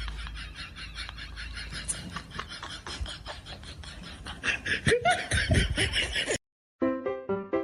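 A person laughing in quick, repeated pulses that cut off suddenly; after a brief gap, piano music starts near the end.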